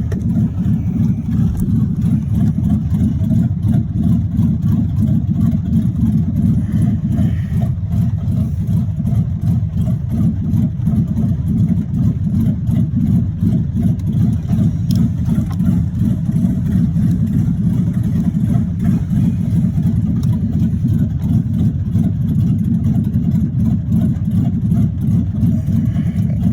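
The V8 engine of a 1986 Chevrolet Monte Carlo SS running steadily as the car is driven, a low, dense rumble. The engine has a bottom-end rod knock.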